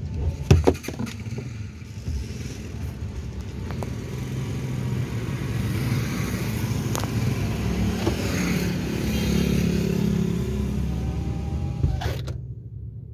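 Car engine idling, heard from inside the cabin, with road traffic outside; a passing vehicle swells for a few seconds. A few sharp knocks come about half a second in, and the outside noise cuts off suddenly near the end while the low engine hum goes on.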